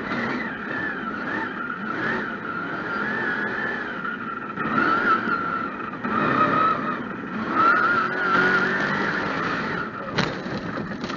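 Mega truck engine running under load, with a high whine that wavers up and down in pitch and swells louder twice; a sharp knock about ten seconds in.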